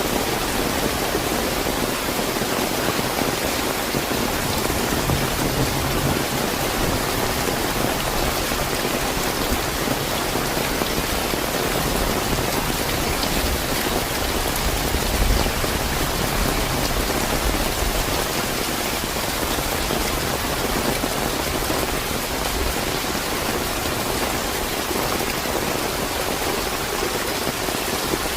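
Steady, fairly heavy rain falling on surfaces, an even hiss of drops, with a brief low rumble about halfway through.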